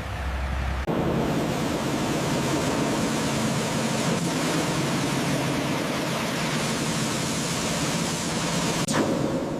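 A steady rushing hiss with a faint low hum beneath it, starting abruptly about a second in, with a single sharp click near the end.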